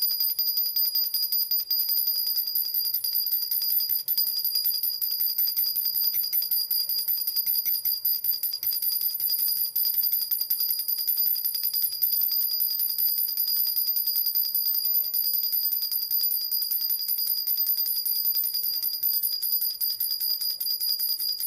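Silver jhunjhuna baby rattle shaken rapidly and without pause, a fast continuous jingle with a bright, high metallic ring.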